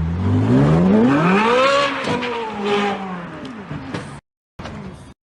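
A car engine revving hard, its pitch climbing steeply for about two seconds and then falling away, with a few sharp knocks and clatter as it drops. The sound cuts off abruptly about four seconds in.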